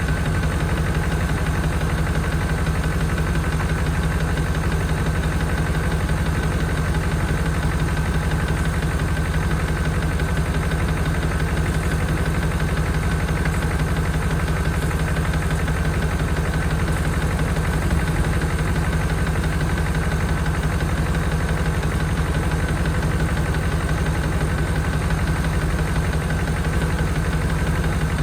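1992 Chevrolet Caprice wagon's V8 running steadily at idle with a knocking noise from the front of the engine, which the owner thinks could be the number 2 rocker arm.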